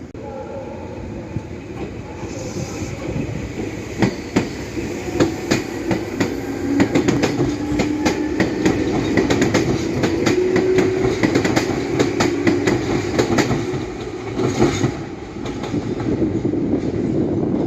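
Meitetsu electric train running past, its wheels clacking over the rail joints in a long run of sharp clicks. Under them a motor whine rises slowly in pitch.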